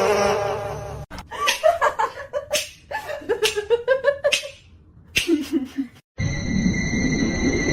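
Laughter in short bursts, then a cut at about six seconds to steady electronic music with held high tones.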